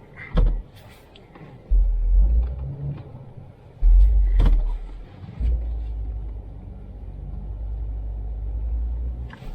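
Off-road truck running while it works in deep snow: a heavy low rumble surges up several times, then holds steady, with two sharp knocks along the way.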